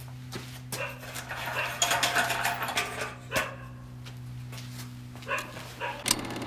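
A dog barking a few times, over a steady low hum and scattered clicks.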